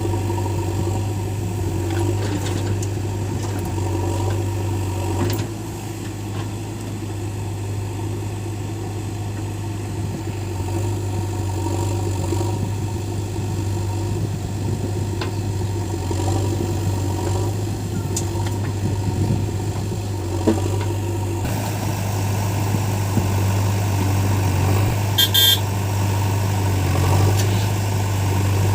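Heavy diesel engine running steadily at a low, even hum, as a backhoe loader works. A brief high-pitched beep sounds near the end.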